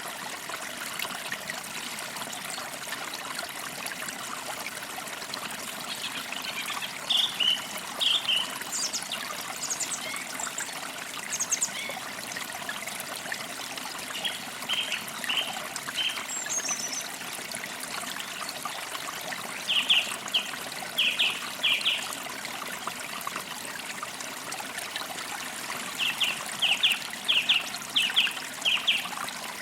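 Forest creek water trickling and flowing steadily, with birds chirping over it in short runs of quick, sharp notes. The loudest runs of notes come about two-thirds of the way in and again near the end.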